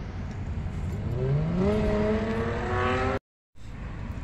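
A motor vehicle's engine revving up over low rumbling background noise, its pitch rising smoothly for about two seconds before the sound cuts off suddenly.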